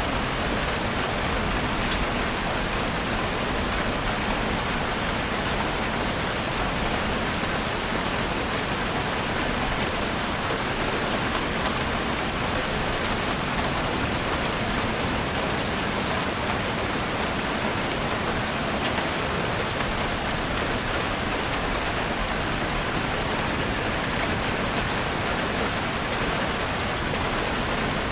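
Heavy rain drumming steadily on a roof, with a dense patter of individual drops.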